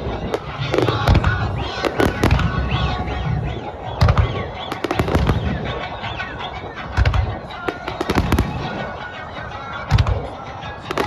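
Aerial fireworks shells bursting in a rapid string of deep booms and sharp cracks, several at a time in places, over music from the show's sound system.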